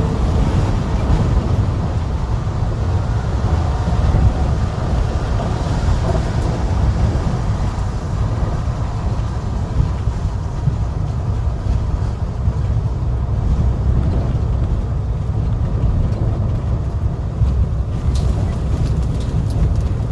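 Heavy truck running steadily, a continuous low rumble with a few faint clicks near the end.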